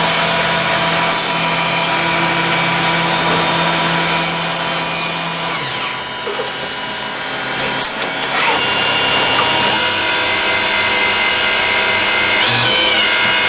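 CNC lathe running and turning metal, a steady machine noise with high whining tones; the sound changes character about seven seconds in.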